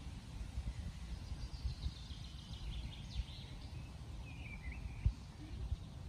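A bird chirps and calls in short sweeping notes about a second and a half to five seconds in, over a low wind rumble on the microphone, with a low thump about five seconds in.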